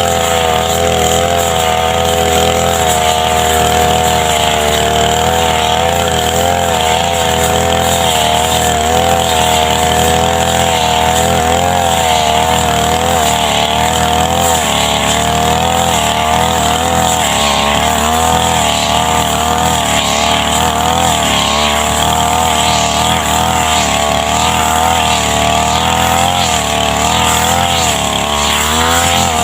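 Brush cutter (grass trimmer) engine running at high speed as it cuts grass, its steady pitch wavering slightly up and down with the load.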